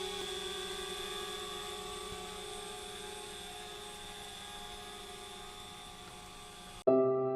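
DJI Spark quadcopter's propellers whining with a steady multi-tone hum, slowly getting fainter. Near the end it cuts off suddenly and piano music begins.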